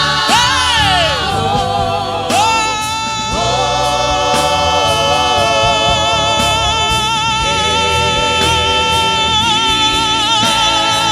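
Gospel worship singing by a group of voices over instrumental backing, the voices holding long, wavering notes.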